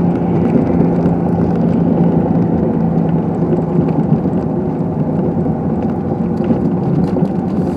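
Steady engine and tyre noise of a car driving on a snow-covered street, heard from inside the cabin, with a constant low hum.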